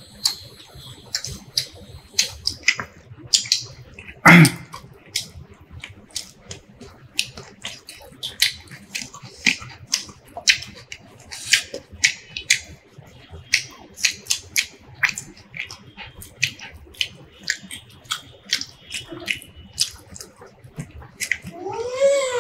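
Close-miked mukbang eating sounds: wet smacks and clicks of chewing and lip smacking, a few each second, with one louder smack about four seconds in. Near the end comes a brief high voice that slides up and then down in pitch.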